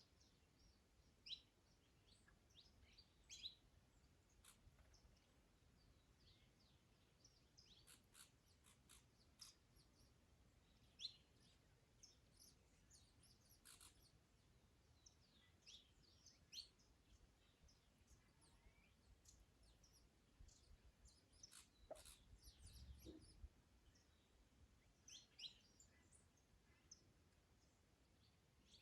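Faint garden birds chirping, short separate calls scattered throughout, with a brief low rumble about three quarters of the way through.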